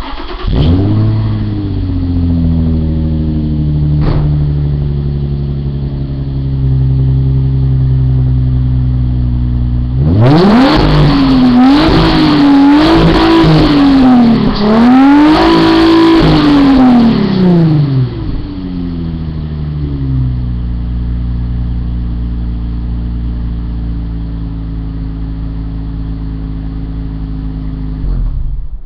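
2006 Nissan 350Z's 3.5-litre V6 through a custom exhaust, cold-started: it catches with a quick flare and settles into a steady fast idle. From about ten seconds in it is revved several times in quick rising and falling blips, then drops back to idle.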